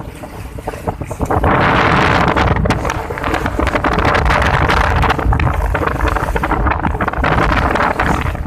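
Wind rushing over the microphone aboard a sailboat under way, a steady loud rush that is lighter for the first second or so.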